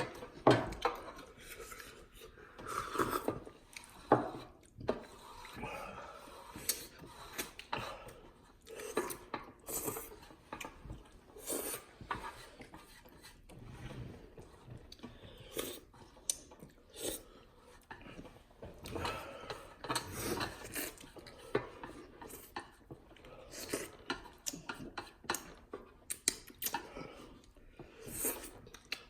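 Noisy eating of cheesy ramen noodles: utensils clicking and scraping against a bowl in irregular bursts, with a few sharper knocks in the first few seconds.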